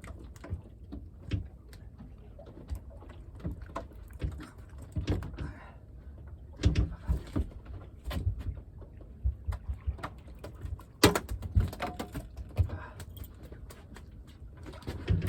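Irregular knocks, clicks and thumps of a conger eel being handled and unhooked on a boat, with a few sharper knocks about seven, eleven and twelve seconds in.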